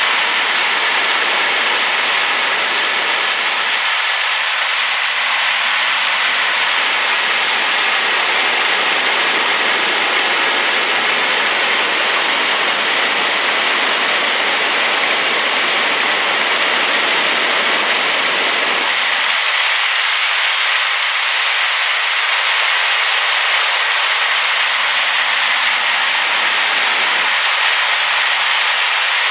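Waterfall swollen by rain, a steady, loud rush of falling water with no breaks.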